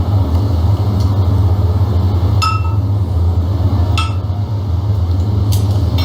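A handful of light clinks, one every second or so, over a steady low hum.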